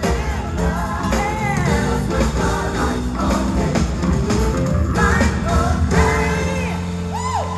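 Live gospel singing with a band: a vocalist sings wavering, ornamented lines over bass and drums, settling into a held note and chord about six seconds in.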